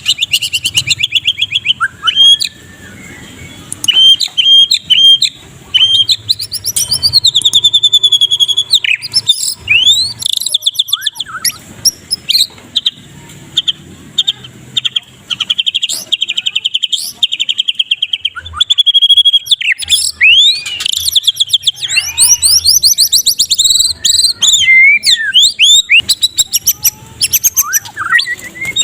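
White-rumped shama (murai batu) in full song: fast rattling trills of rapidly repeated notes alternating with rising and falling whistled phrases, broken by short pauses.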